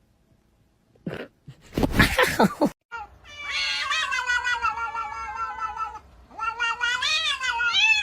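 A domestic cat yowling: after a brief harsh outburst, two long drawn-out calls, the first sliding slowly down in pitch, the second wavering up and down.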